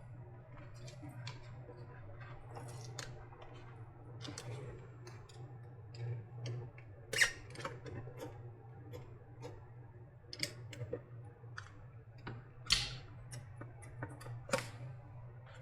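Irregular small clicks, taps and light scrapes of hand-disassembling a plastic e-scooter battery case, with sharper knocks about 7, 12.5 and 14.5 seconds in, over a steady low hum.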